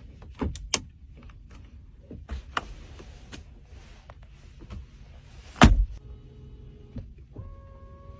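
A car's doors and fittings being handled: a series of sharp clicks and knocks, a loud thump about five and a half seconds in, then a steady two-tone electronic chime near the end.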